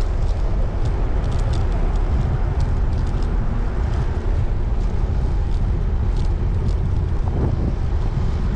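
Wind buffeting the microphone on a moving road bike, a steady low rumble, with a few faint ticks above it.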